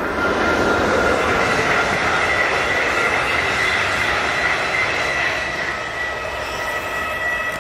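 A train running past, its wheels squealing: a steady high-pitched squeal over the rolling rumble. It grows loud just after the start and eases slightly toward the end.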